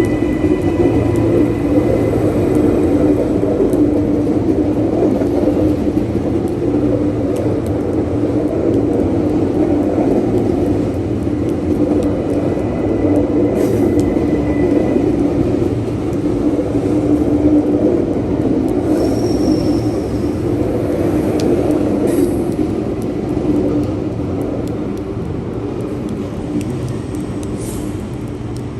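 Train running past with a steady, loud rumble, with a faint thin whine at times.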